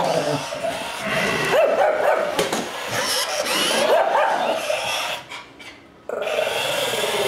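Shih Tzu barking and growling in play, with a short break about five seconds in.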